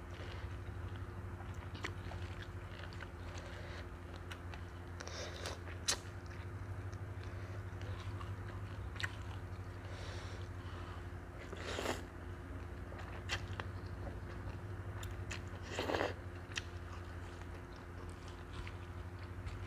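Close-up eating sounds of a rice vermicelli salad with crisp vegetables: chewing and crunching, with small clicks and a couple of louder bursts around 12 and 16 seconds, over a steady low hum.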